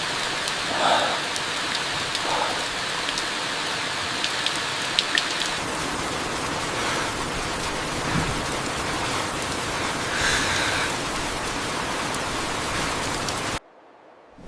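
Steady rain falling, an even hiss with scattered drop ticks; it cuts off suddenly near the end.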